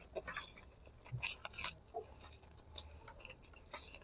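Close-up mouth sounds of someone eating braised pig feet: irregular wet clicks and smacks from chewing, spread through the whole stretch.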